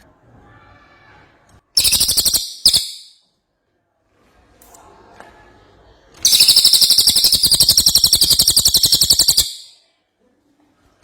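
Cililin songbird singing: two short, loud rattling bursts about two seconds in, then a long fast rattling trill of about three seconds.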